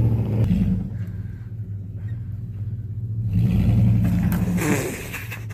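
Vehicle engine revving hard under load, surging twice with a deep rumble: the driver pushes it to force the vehicle over an obstacle.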